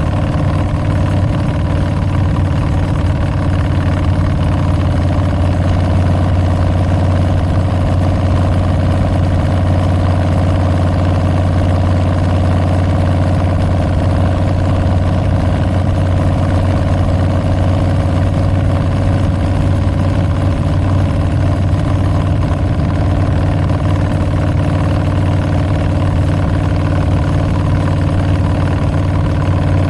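2022 Harley-Davidson Street Bob's Milwaukee-Eight 114 V-twin running through Tabs Performance slip-on mufflers with Zombie baffles, holding a steady engine speed with a deep, even note.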